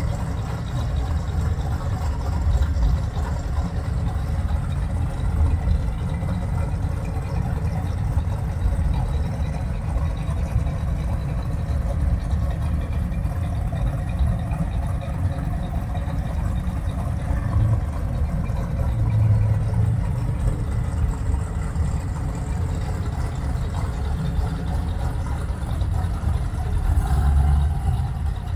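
Classic muscle cars and pickups idling and creeping past in a slow line, a steady low engine rumble with small swells as each car goes by.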